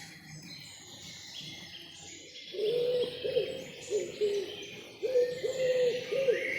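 Forest birdsong: high chirping of small birds throughout, joined about two and a half seconds in by a run of short, low, repeated hooting calls that are the loudest sound.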